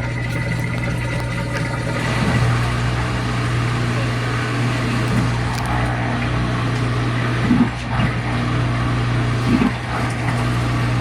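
GE Spacemaker top-load washer's drain pump running steadily through the final drain, pumping out the rinse water with a low hum and a rush of water. A couple of short gurgles come near the end.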